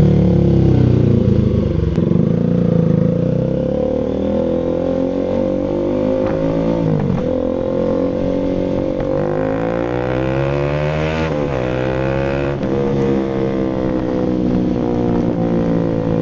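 Single-cylinder engine of a Rouser RS200 motorcycle running through an SC Project full aftermarket exhaust. The revs fall and climb again several times, with sharp drops about seven and eleven seconds in, then hold steady near the end.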